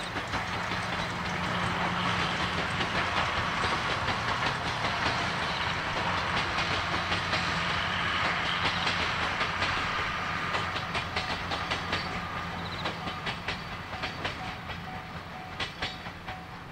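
The SL Yamaguchi steam train, locomotive C57 1 with its coaches, rolling past close by. Its wheels click rapidly over the rail joints, and the sound grows to a peak about halfway, then fades as the train draws away.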